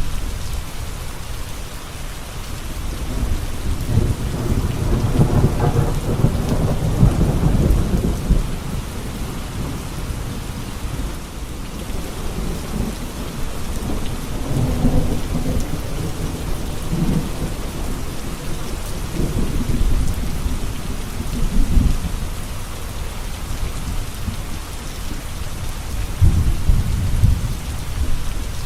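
Steady rain with rolls of thunder: a long roll a few seconds in, then shorter rolls about halfway, two-thirds of the way through and near the end.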